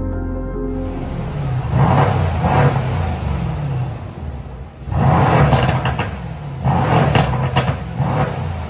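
Mercedes-AMG C63's 4.0-litre twin-turbo V8 through its AMG sports exhaust, revving up and dropping back several times.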